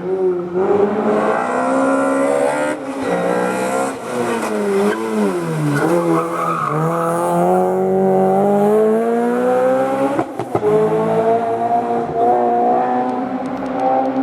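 A historic rally car's engine at a hairpin: the revs drop as it slows about five seconds in, then climb hard as it accelerates away, with a brief break for a gear change about ten seconds in before the revs rise again.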